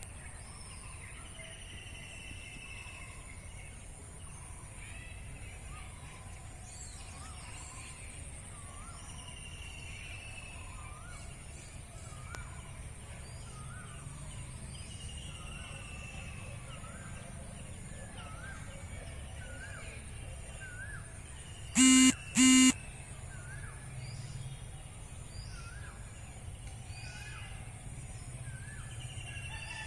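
Birds chirping and calling in an open field: a falling whistled call repeated every few seconds and many short chirps, over a steady high-pitched drone. About 22 seconds in, two loud short honks sound in quick succession.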